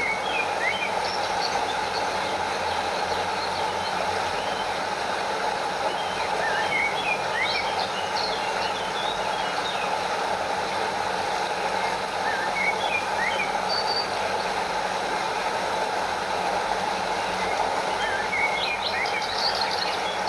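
Steady rush of a stream flowing over a small waterfall. Birds chirp in short bursts four times over it.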